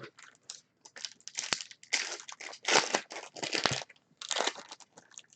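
Baseball card pack wrappers crinkling in irregular bursts as the packs are handled and opened.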